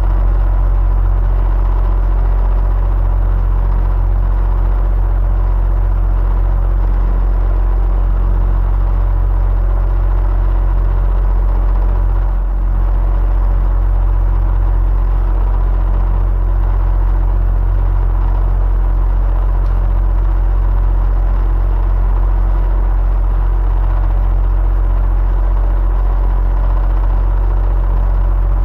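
Electric fan running steadily: a constant deep hum and whir with a few steady tones, dipping slightly for a moment about halfway through.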